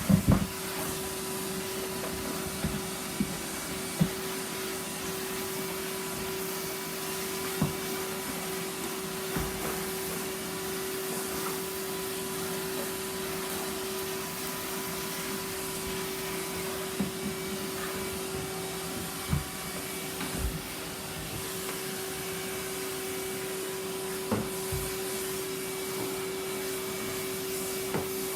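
Henry canister vacuum cleaner running steadily with a constant hum, picking up wood shavings, with a scattering of short knocks and clatters through the run.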